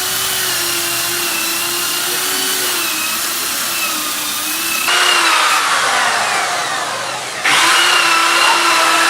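An electric power tool running with a steady, slightly wavering whine. About halfway through, a noisier sound takes over and falls in pitch for a couple of seconds, then the steady whine comes back.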